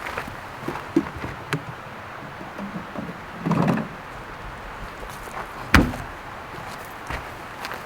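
Scattered clicks and knocks, with a short scraping burst about three and a half seconds in and one loud sharp clunk just before six seconds.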